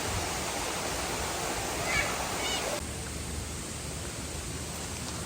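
Steady rushing water of a waterfall, a dense even hiss that drops slightly in level about three seconds in.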